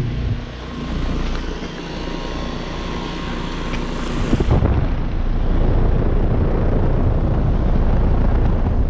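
A 2013 AirTemp heat pump's outdoor unit running in cooling mode in its first seconds after startup: a steady hum and fan rush that grows louder about halfway through.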